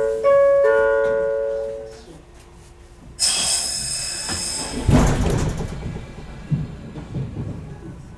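An electronic door-closing chime plays and ends about two seconds in. About three seconds in, a loud hiss of compressed air starts as the 115 series train's pneumatic doors close, ending in a heavy thud near five seconds, then a low rumble.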